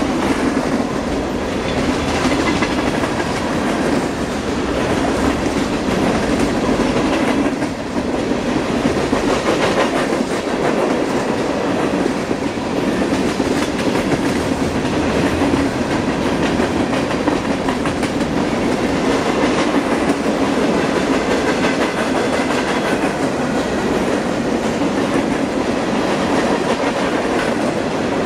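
Freight cars of a BNSF manifest train rolling past close by: a steady, loud rolling noise of steel wheels on rail, with occasional clacks.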